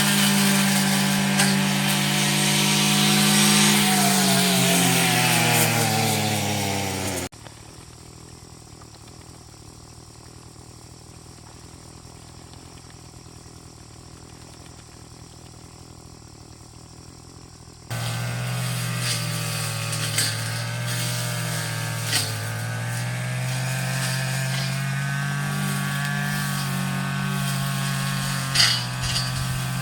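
Small petrol engine of a grass cutter running, its pitch sinking as it slows and then cutting off abruptly about seven seconds in. A quiet stretch follows, and the engine comes back running steadily about ten seconds later.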